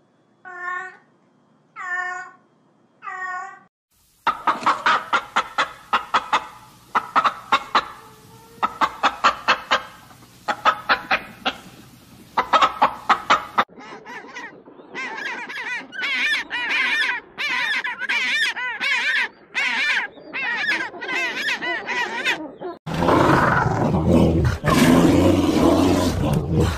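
A string of animal calls: a cat meows three times in the first few seconds, then about nine seconds of rapid pulsed calls from an unseen animal. From about halfway, African penguins bray in a run of calls, and near the end a bear growls loudly.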